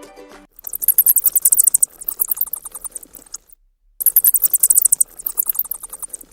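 Bat squeaking: rapid, very high-pitched chittering chirps in two bouts, the second about three seconds after the first.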